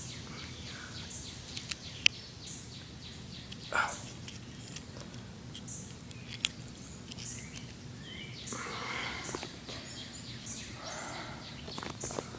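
Outdoor ambience: a bird chirping repeatedly in short high notes over a steady low background hum, with a few sharp clicks and some rustling.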